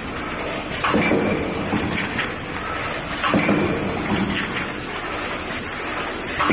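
Automatic double-station paper carton thermoforming machine running: a steady rushing hum from the machine with a knock and short surge about every two and a half seconds as each forming stroke cycles.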